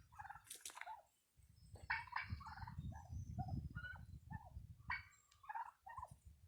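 Domestic turkeys calling: a run of short calls, several in quick succession, with a brief lull about a second in.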